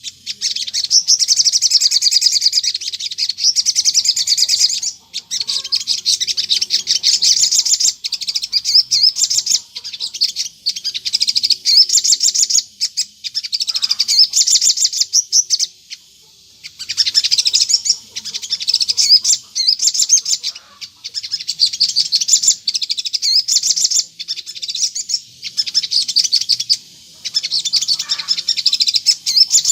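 A sogon songbird singing a fast, loud, chattering song in long runs of several seconds broken by short pauses. This is the full 'gacor' song used as a lure recording to make wild sogon birds answer.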